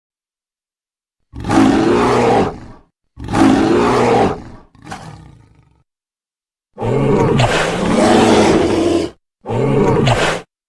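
Dinosaur roar sound effects: five separate roars with short pauses between them, the third shorter and fainter and the fourth the longest.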